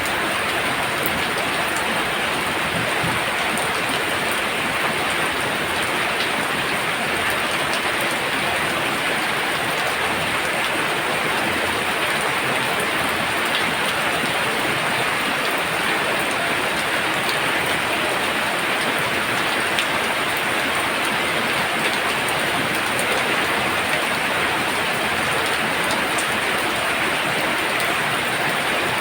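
Heavy rain pouring down, a steady, even hiss of downpour with scattered faint drop ticks.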